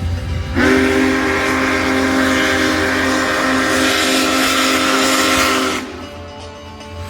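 Union Pacific Big Boy No. 4014's steam whistle sounding a chord in one long blast of about five seconds. A second blast begins right at the end, over a low steady rumble.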